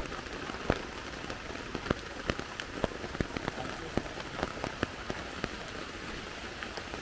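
Heavy rain on a tarp shelter: a steady patter with many loud, irregular drops tapping the fabric.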